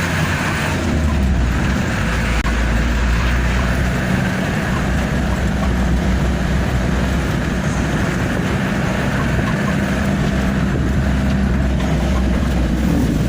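Truck driving on the road: its engine runs with a steady low drone, mixed with road noise.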